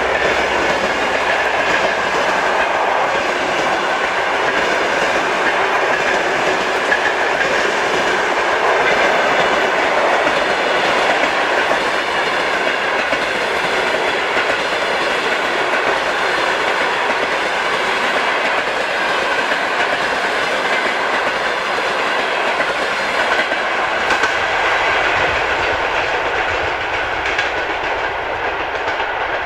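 Passenger train running past: a steady rolling rush from the coaches, with wheels clicking over rail joints, easing slightly near the end.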